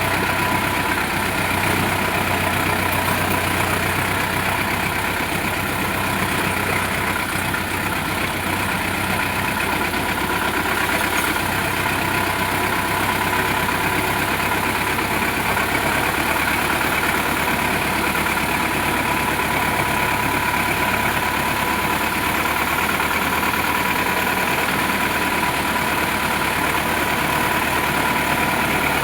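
Sonalika DI 750 tractor's diesel engine running steadily, with a slight change in its low note about halfway through.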